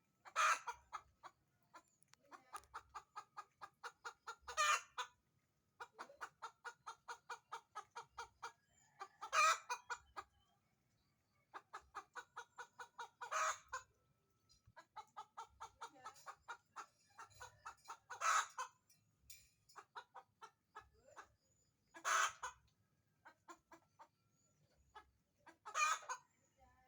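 Domestic hen's egg song: runs of quick, short clucks, about four or five a second, each ending in a loud, drawn-out squawk, seven times over. It is the laying cackle a hen gives around laying an egg.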